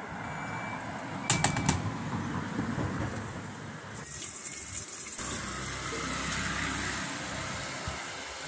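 Top-loading washing machine running just after being started on a test cycle: a steady rushing noise, with a brief cluster of clicks about a second and a half in.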